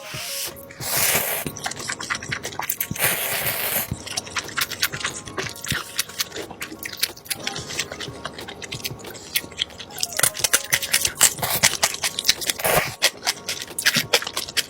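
Close-up crunching and chewing of crispy fried chicken: loud crunchy bites about a second in and again around three seconds in, then a long run of crackly chewing that is busiest near the end.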